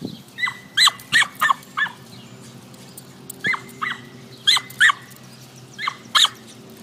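A dog yipping: about a dozen short, high-pitched yips in bunches, each dipping in pitch.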